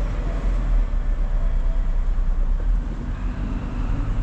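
A car driving, with a steady low rumble from the engine and road heard inside the cabin.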